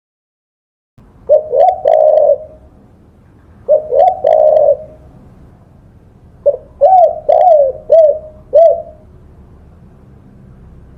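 Spotted dove (tekukur) cooing: after a second of silence, three phrases of deep, short coos, the third a longer run of five notes.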